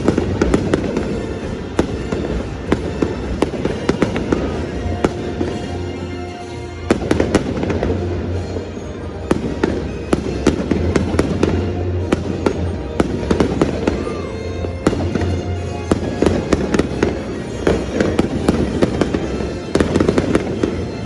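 Aerial fireworks show: many sharp bangs and crackles in quick succession over music played with the display.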